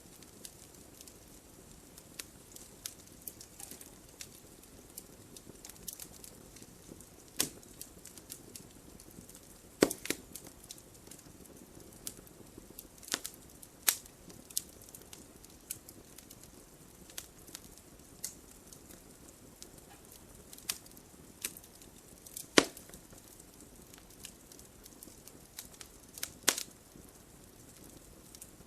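Wood fire burning in a fireplace: a low steady hiss with irregular sharp crackles and pops, a few of them much louder than the rest.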